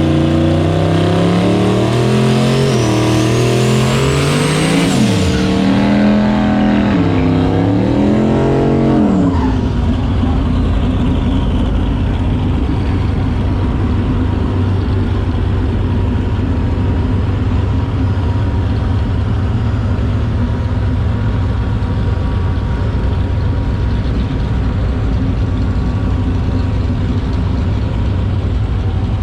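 Turbocharged drag car engine running hard, its pitch rising and dropping repeatedly with a high rising whine, then breaking off about nine seconds in. A steady low engine rumble follows.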